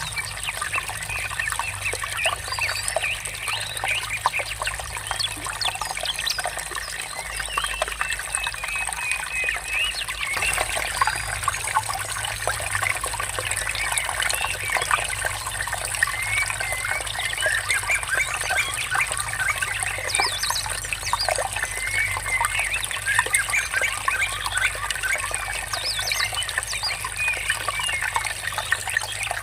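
Water trickling steadily, with many small birds chirping and singing over it throughout.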